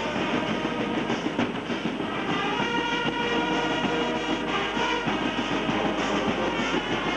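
Brass band music: brass instruments holding chords over a steady rhythmic beat.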